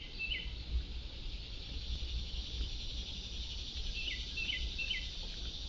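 Steady outdoor chorus of insects, with a bird's short chirps: one near the start and three in quick succession about four seconds in. A low rumble runs underneath.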